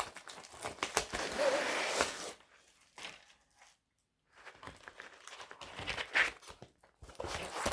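Packaging crinkling and rustling as it is handled and opened, with a break of a second or two about halfway through.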